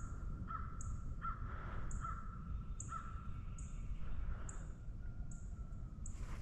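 A bird calling over and over in a regular series, about one call a second, the calls growing fainter after about three seconds.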